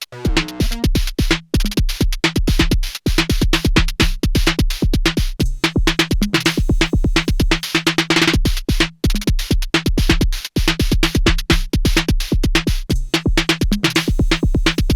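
Erica Synths Perkons HD-01 analog drum machine playing a techno pattern at 128 bpm: a steady kick on every beat, fast hi-hats and pitched percussion tones, with a few brief drop-outs in the groove.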